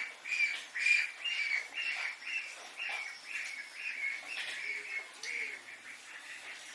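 A bird chirping over and over, short, slightly falling notes about two a second, fading a little toward the end.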